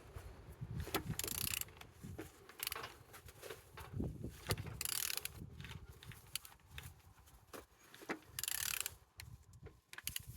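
A used engine being turned over by hand with a tool: repeated mechanical clicks and clunks, with three short hissing whooshes a few seconds apart. The engine turns freely, a sign it is not seized.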